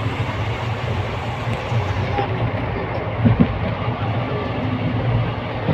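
Moving passenger train heard from inside the coach: a steady rumble with a low drone, and a couple of brief knocks a little over three seconds in.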